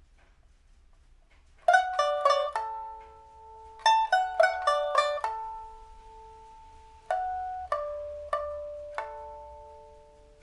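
Solo pipa, played on test after repair: a new soundboard and new frets, a steel first string and Dunhuang strings on the rest. After a moment of quiet come two quick runs of plucked notes, then four single plucked notes a little over half a second apart, each left to ring and fade.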